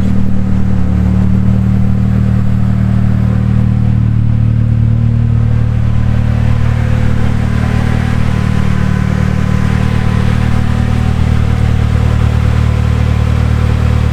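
Car engine running steadily at an even speed, a constant low hum that hardly changes.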